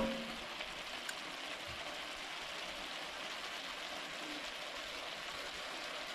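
Mushrooms sizzling steadily as they sauté in an enamelled cast-iron pot, stirred with a wooden spoon. A single short knock with a brief ring right at the start.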